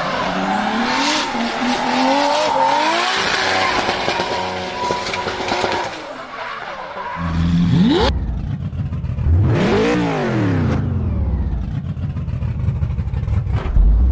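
Racing-car engine sounds, revving up and down with tyre squeal in the first half. About 7–8 s in the sound changes suddenly to a deeper engine that revs up to a peak about 10 s in and falls away, then rises again near the end.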